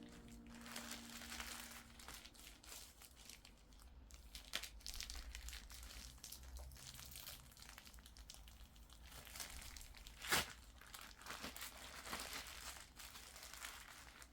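Crinkling and rustling as something papery or plastic is handled, with scattered small clicks and one sharper click about ten seconds in.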